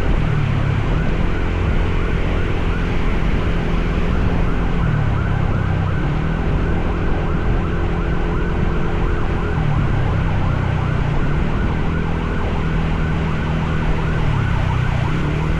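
Motorcycle engine running under way, its pitch sagging and climbing back a few times as the throttle is eased and reopened, over a steady hiss of rain and wind.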